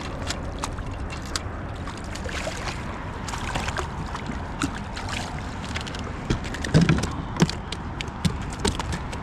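Water sloshing against a kayak hull under a steady low rumble, with scattered small clicks and a cluster of louder knocks about seven seconds in.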